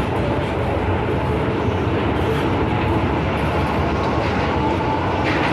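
Kwun Tong Line M-Train in motion, heard from inside the car: a steady, even running noise of the wheels on the rails and the train's running gear, with a faint tone appearing partway through.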